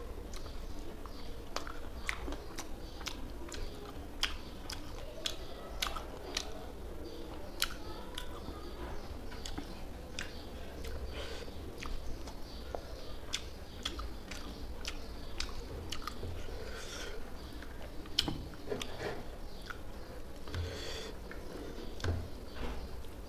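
A person chewing a mouthful of rice and fish curry close to a clip-on microphone, with many irregular wet mouth clicks and smacks.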